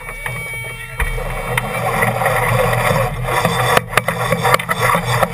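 A sailing yacht under way: a steady rush of water and wind noise, with a few sharp knocks.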